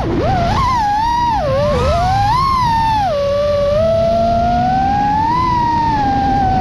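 FPV quadcopter's brushless motors whining over a low rushing noise. The pitch dips sharply at the start, then swoops up and down several times as the throttle changes, and settles lowest about three seconds in.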